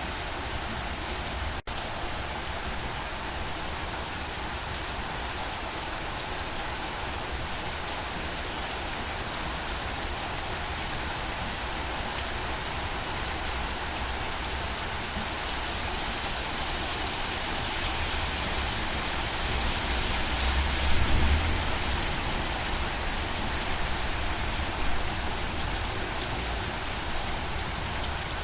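Steady rain falling, an even dense hiss of drops on surfaces. There is a split-second gap in the sound near the start, and a brief low rumble about two-thirds of the way through.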